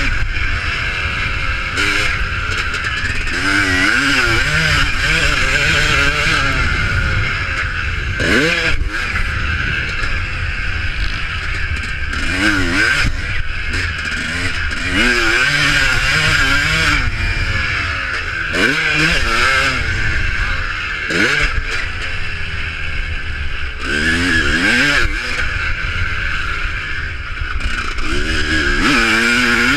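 Motocross motorcycles racing, their engines revving up and falling back again and again, several at once, over a constant rumble.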